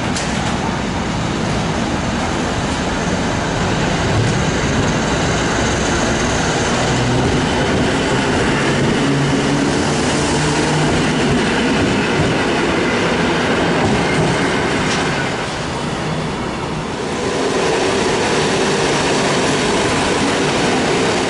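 Polish EN57 electric multiple units running along a station platform, with a container freight train on the next track: a steady rumble of wheels on rail. The noise eases for a moment about two-thirds of the way through, then builds again as the next unit passes.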